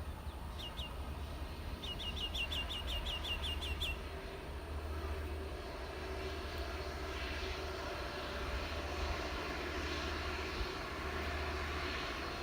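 A bird gives a couple of short calls, then a quick run of about ten chirps; from about five seconds in, the jet engine sound of a landing Boeing 787-8 Dreamliner builds gradually over a low steady rumble.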